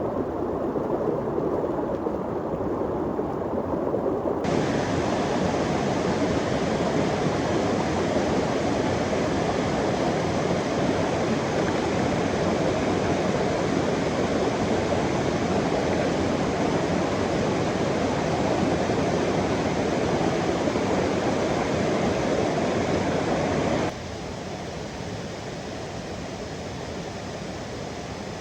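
Waterfall rushing, a loud, steady roar of falling water. About four seconds in it turns abruptly brighter and hissier, and a few seconds before the end it drops sharply quieter and duller.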